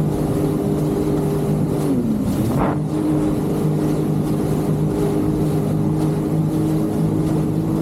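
Jet ski engine running steadily at speed. About two seconds in, its pitch drops and then climbs back as the throttle is eased off and opened again.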